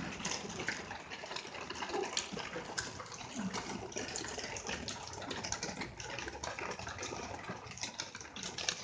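Heavy rain falling steadily, with a dense scatter of small drop hits.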